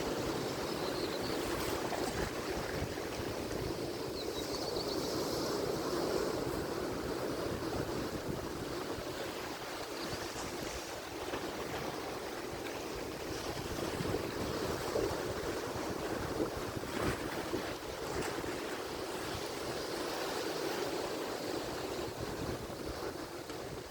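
Atlantic Ocean surf: waves breaking and washing in a steady, continuous rush that swells and eases slowly.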